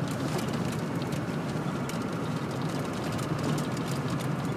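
Steady road and engine noise heard from inside the cabin of a moving vehicle.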